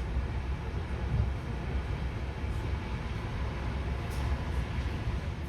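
Steady low rumble of a moving regional train, heard from inside the carriage, with a faint click about four seconds in.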